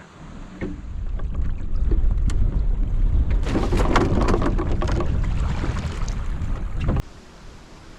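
Strong wind buffeting the microphone with water rushing and splashing along a sailing canoe's hull, a louder wash of water about three and a half seconds in; it cuts off abruptly about seven seconds in.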